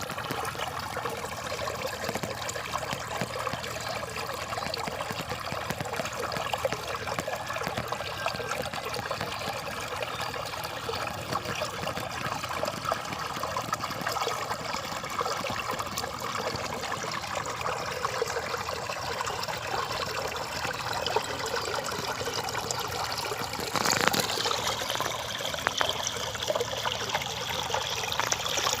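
A small stream of rainwater trickling and burbling steadily through a narrow channel. About 24 seconds in the flow sounds a little louder and brighter.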